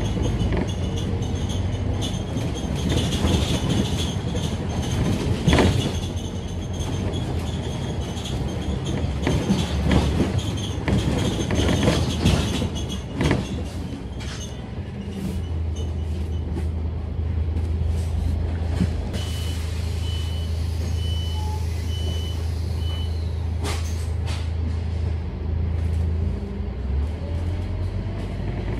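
Scania K310UD double-decker bus: body rattles and knocks with a high whine while it moves, then the engine settles into a steady low idle about halfway through. A short run of evenly spaced beeps sounds during the idle.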